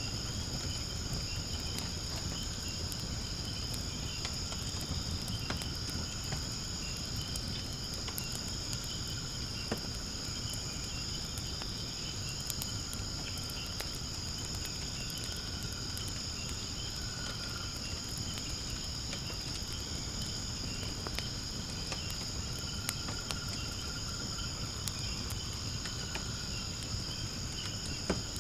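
Steady high-pitched chorus of night insects trilling without a break, over a wood fire in a fire pit giving scattered small crackles and pops and a low steady rumble of flames.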